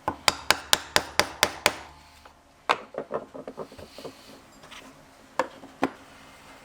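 Leatherworking hammer striking rapidly: eight even blows about four a second, then a flurry of lighter taps, then two more single strikes near the end.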